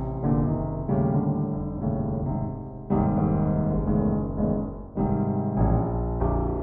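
Background piano music, slow sustained chords with new notes struck every second or two.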